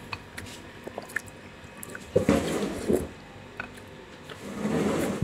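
A person chewing a mouthful of boiled instant noodles, with wet, squishy mouth sounds and a few small clicks. The chewing is louder for a moment about two seconds in and again near the end.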